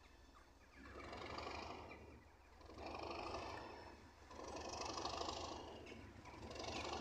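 Locomotive-hauled train pulling away in the distance: a steady low rumble, with a rushing exhaust sound that swells and fades about every two seconds.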